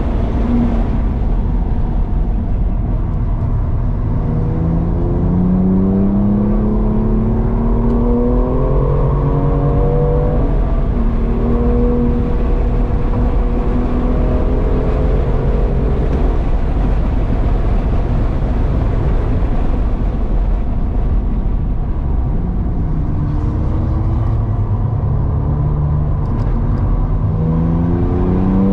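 BMW engine under hard track acceleration, heard from inside the car: its note climbs in pitch in steps through the gears, eases off in the middle, and climbs again near the end, over steady road and wind rumble.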